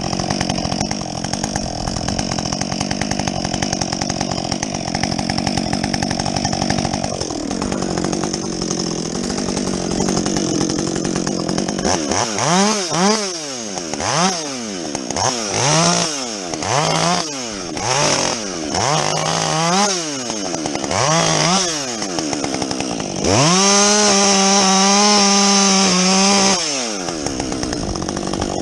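Husqvarna 562XP two-stroke chainsaw with a modified muffler, running steadily before its revs drop about seven seconds in. It is then blipped up and down about once a second some nine times, and held at high revs for about three seconds near the end before falling back.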